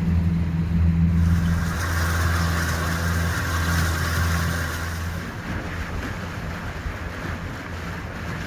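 Boat engine running steadily while under way, with wind and water noise; the engine hum fades out about five seconds in.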